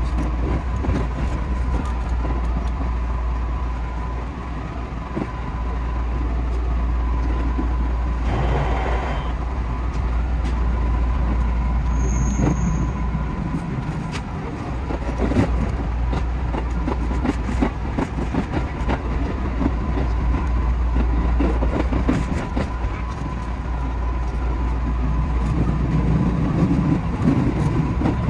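JR 221 series electric train running on the line, heard from inside the driver's cab: a steady rumble of wheels on rail with frequent clicks and knocks and a thin steady whine.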